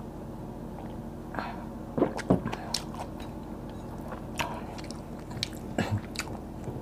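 Close-up eating sounds: wet chewing and smacking mouth clicks as rice and fried fish are eaten by hand, in short irregular bursts over a low steady hum.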